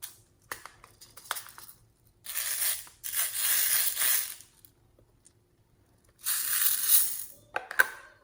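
Slime being squished and stretched by hand: three crackly, squelching bursts about a second long, with sharp clicks and pops between them.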